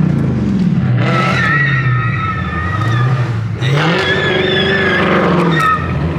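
Mopar V8 muscle-car engines running and revving, with a rise in engine pitch about halfway through. Two stretches of high, wavering tire squeal each last about two seconds.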